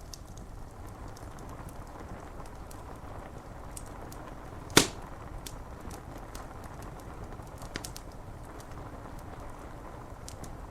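Wood fire crackling over a steady hiss of rain on window glass, with scattered small crackles and one loud sharp pop about five seconds in.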